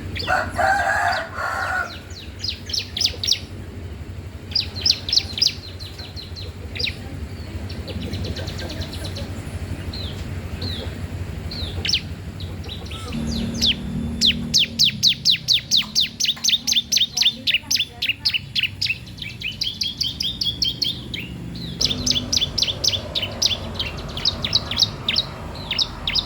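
A cisem, a small songbird, singing a fast string of sharp high chirps repeated in long runs, a few notes a second, with the busiest, loudest run about halfway through.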